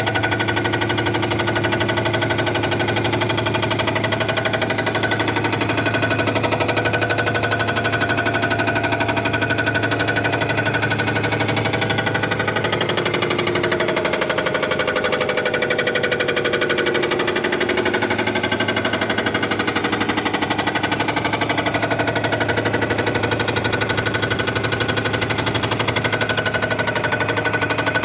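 A machine running steadily with a fast, even rattle and a low hum.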